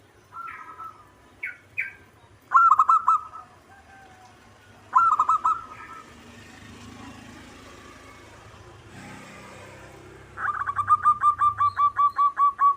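Zebra dove cooing. A few short bursts of quick staccato coos come in the first half, then a long rapid run of about a dozen coos near the end.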